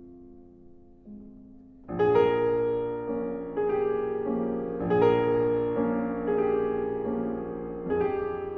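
Soundtrack piano music: soft held notes, then fuller, louder piano chords enter about two seconds in and are struck in a slow, even succession.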